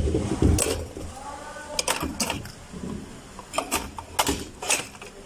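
Irregular clicks, knocks and light metallic clatter of hand tools and parts being handled while a car's fuel pump is removed, with a few low thuds at the start and a brief squeak about a second in.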